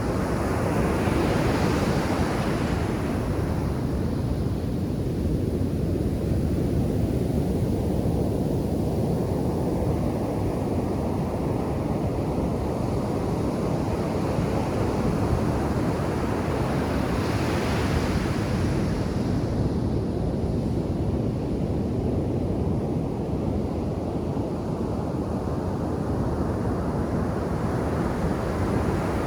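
Ocean surf on a beach: a steady low rumble of waves, with two breakers crashing more loudly, about a second in and again about halfway through.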